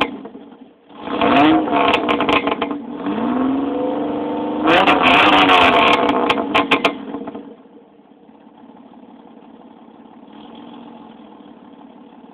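1992 Dodge Dakota's 3.9 V6, run with no catalytic converter through a glasspack muffler, revved several times: a short blip about a second in, a slower rising rev, then the loudest rev from about five to seven seconds. After that the sound drops to a much quieter, steady one.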